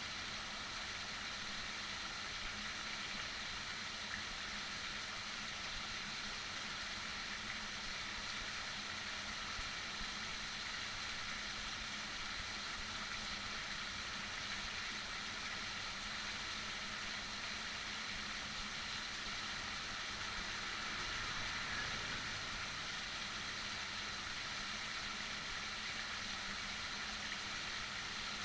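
Heavy rain falling steadily, an even hiss with no single drops or gusts standing out, over a faint steady low hum.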